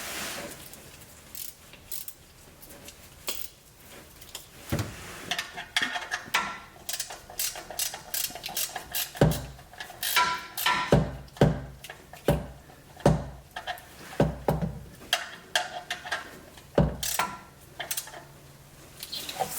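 Ratchet wrench clicking in irregular runs as the 14 mm oil drain bolt is tightened snug, with a few heavier knocks mixed in.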